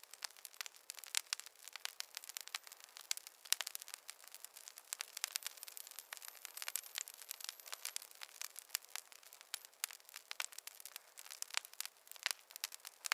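Wood fire crackling in a fireplace: dense, irregular pops and snaps over a soft hiss, with no low rumble.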